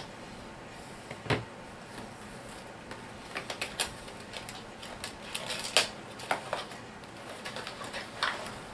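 A HeroClix booster being opened and its plastic figures handled on a table. There is a single knock about a second in, then an uneven run of sharp clicks and rustles through the middle and again near the end.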